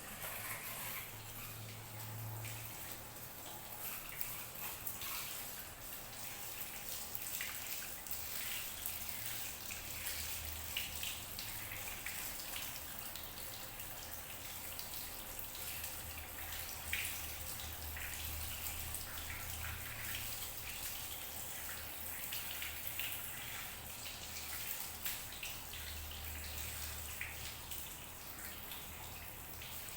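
Water running from a tap and splashing steadily, switched on suddenly at the start.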